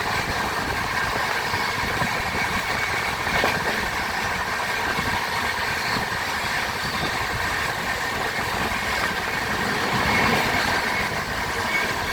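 Train running: a steady rumble and rolling noise that keeps on evenly without a break.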